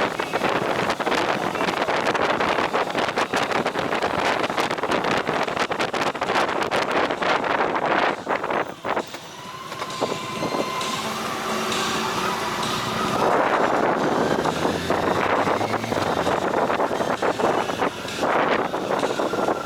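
Wind rushing and buffeting over the microphone of a moving vehicle, with road and engine noise. The rush drops briefly about nine seconds in; an engine tone then rises in pitch as the rush builds back up.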